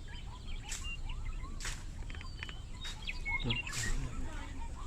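Birds chirping outdoors: a run of short rising calls repeated a few times a second, with higher twittering calls mixed in. Several sharp swishes about a second apart cut across them, over a low steady rumble.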